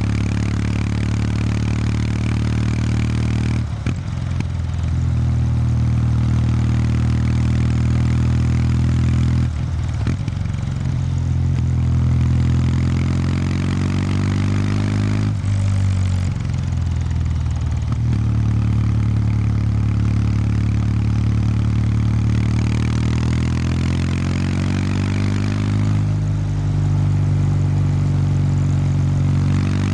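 Exhaust note of a 2019 Kawasaki W800 Street's air-cooled parallel twin on its stock exhaust, under way on the road. The note climbs slowly in pitch and three times briefly breaks off and picks back up, as the throttle is closed and opened again.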